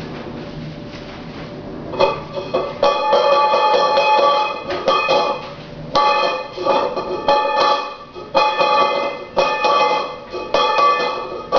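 A bowl being banged repeatedly, starting about two seconds in, about once a second, each hit ringing on with a clear tone.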